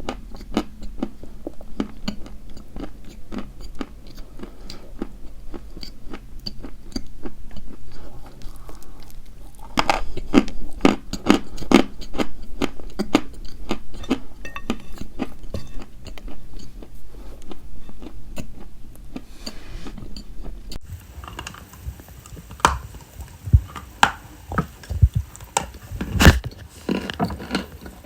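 Dry white chalk being bitten and chewed close to the microphone: a dense run of small crisp crunches, louder for a few seconds about a third of the way in. A low hum under it stops about three quarters of the way through, and the crunches after that come as sharper, separate snaps.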